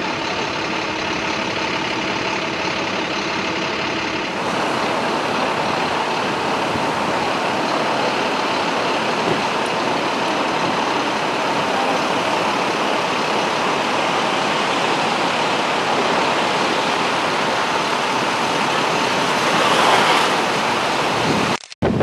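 Steady rushing street noise in a gale, wind mixed with traffic, with a vehicle engine idling under it for the first few seconds.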